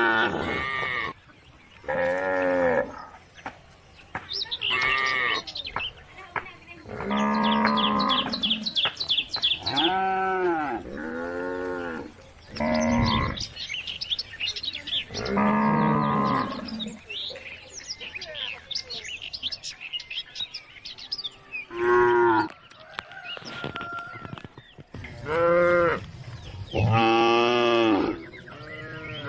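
Cows mooing over and over, about a dozen separate calls in varying pitches, some drawn out and bending up and down, with short gaps between them.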